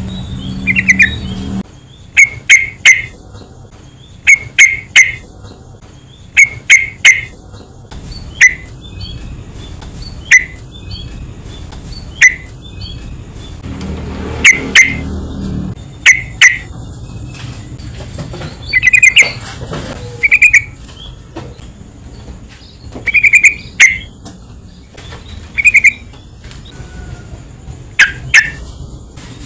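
Yellow-vented bulbul calling: short, bubbly chirping phrases repeated every second or two, some in quick pairs or triplets.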